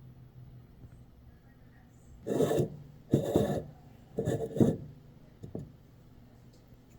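A hand-pumped milk frother's plunger worked in three short rasping strokes, with a smaller fourth near the end.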